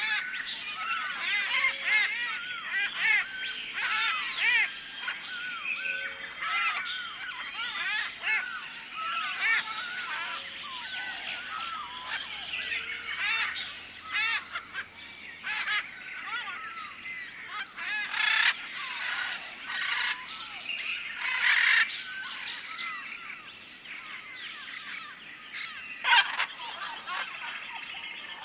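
A flock of birds calling, many short chirping calls overlapping all the way through, with a few harsher noisy bursts in the second half.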